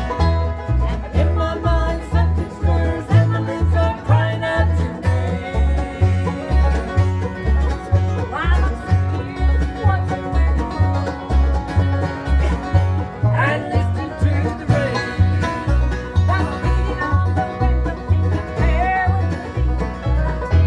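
Acoustic bluegrass jam: banjo and guitar with fiddle over a steady low bass beat about twice a second. Sliding notes rise out of the mix twice, about eight and thirteen seconds in.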